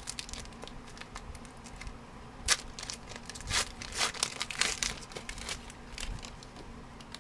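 Trading cards and a foil pack wrapper being handled, a run of brief crinkles and rustles. The sharpest comes about two and a half seconds in, and a thicker cluster follows around four to five seconds in.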